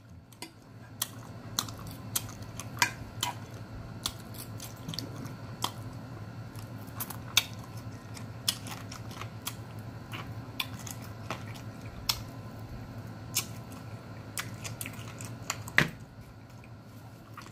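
A person chewing and eating smoked chicken close to the microphone: irregular wet mouth clicks and smacks, over a steady low hum.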